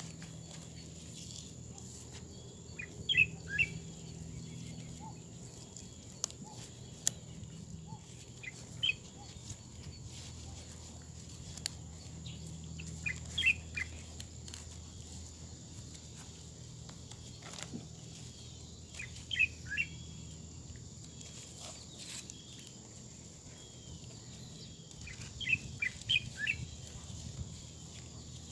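A bird calling in short clusters of three or four quick chirps, about five times with several seconds between, over a faint steady outdoor background.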